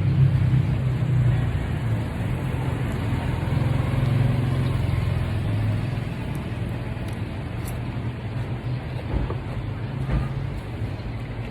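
Steady low rumble of a road vehicle running, with road noise, easing a little after about six seconds.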